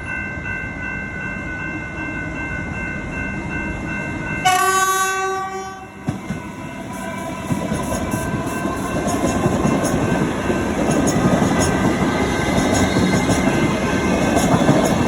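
Level-crossing warning bell ringing steadily, then the horn of a refurbished Alstom Comeng electric train sounds once, for about a second and a half, about four seconds in. The train then passes over the crossing, its wheels clattering on the rails, growing louder toward the end.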